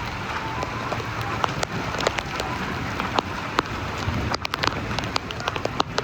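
Thunderstorm downpour: heavy rain falling steadily, with many sharp, irregular taps of drops striking close by.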